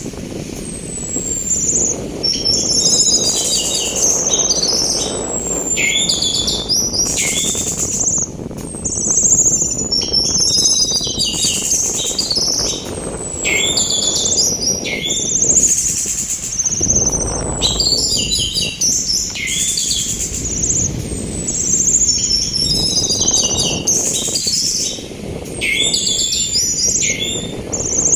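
Orange-headed thrush (anis merah) singing in phrases repeated about every two seconds, each opening with a high falling whistle and breaking into quick rattling and sharp notes, the 'nratak', 'ngecis' and 'ngeplong' styles Indonesian bird keepers train for. Under it runs a steady rush of sea wind that swells for a few seconds past the middle.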